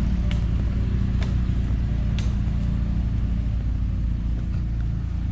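Off-road vehicle engine running steadily at low revs, with a few faint clicks over it.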